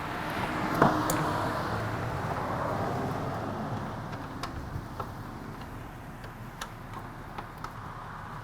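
Light scattered clicks and ticks of an Allen key and fasteners as a motorcycle's plastic lower fairing is unbolted. There is a sharper knock about a second in, over a rushing noise that swells and fades during the first few seconds.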